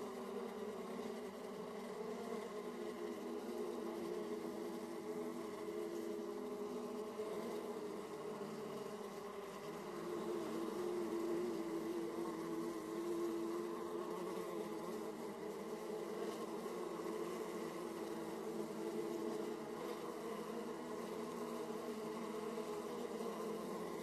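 Honeybees buzzing at a hive entrance: the steady, many-voiced drone of a colony's bees flying around the entrance. It swells slightly for a few seconds about halfway through.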